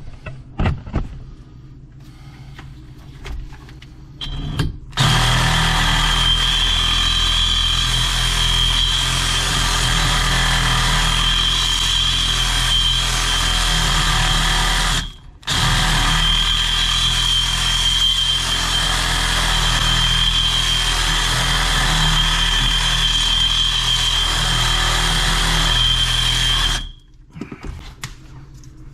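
A handheld power tool running at a steady speed in two long runs, with a brief stop about fifteen seconds in. It has a constant high whine over a low hum, and some clicks of handling come before it starts.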